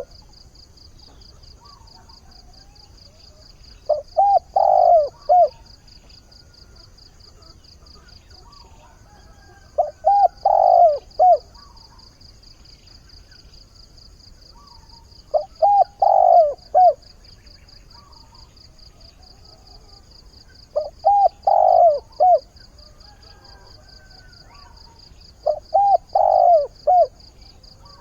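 Decoy spotted dove cooing its advertising call to draw wild doves, five short phrases of three or four notes, about every five and a half seconds. A steady high pulsing buzz runs underneath.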